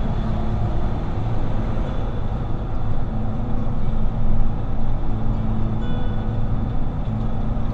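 Semi-truck driving at speed: a steady low engine drone under even road and tyre noise.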